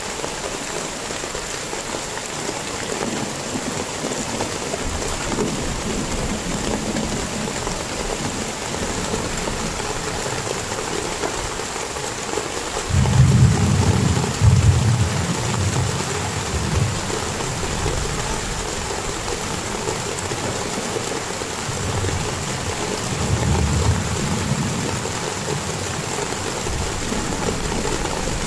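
Heavy rain falling steadily. Thunder rumbles in abruptly about halfway through and is the loudest part, then rumbles again more weakly a few seconds later.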